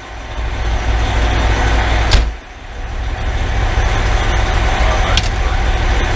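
2010 Pierce Velocity fire engine's 470 hp Detroit Series 60 diesel running with a heavy low rumble, with sharp clunks about two and five seconds in. The rumble dips after the first clunk and then builds back up.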